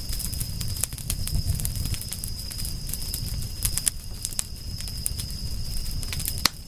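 Wood fire crackling, with many small pops over a low rumble of the flames and one sharper pop near the end. A steady high thin tone sounds alongside.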